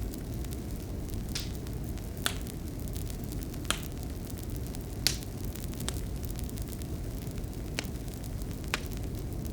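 Fireplace fire burning with a steady low rumble and sharp crackles and pops at irregular intervals, about seven of them, the loudest about five seconds in.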